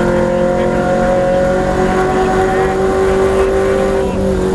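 V8 race car engine running hard at high revs, its pitch slowly climbing, then falling away about four seconds in.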